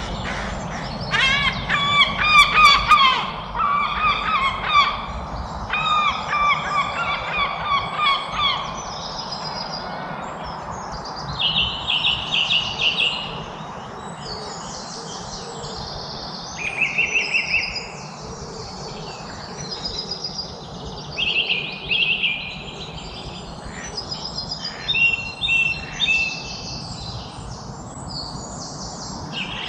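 Wild birds calling and singing: a run of lower, repeated calls in the first eight seconds or so, then short high chirps and song phrases dotted through the rest, over steady background noise.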